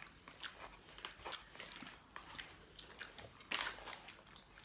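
Soft, close-up chewing and mouth clicks from eating a McDonald's cheeseburger, with a louder noisy sip from a large paper drink cup about three and a half seconds in.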